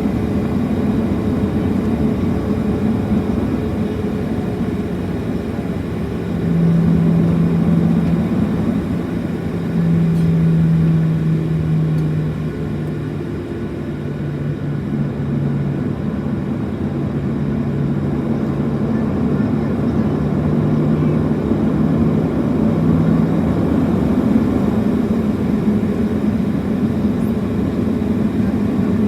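Cabin noise inside a Boeing 737-700 with its CFM56-7B engines running: a steady low drone with a constant hum, and a lower hum that comes and goes in the middle.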